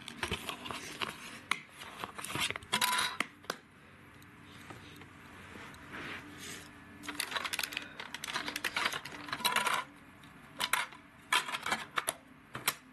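Plastic clicking and rattling in clusters of sharp clicks as a DVD case is opened and the disc handled, with a quieter pause in the middle.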